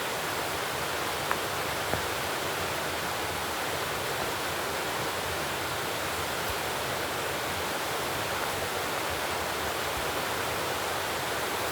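Steady rushing noise throughout, with two short sharp knocks a little over a second in and just before two seconds.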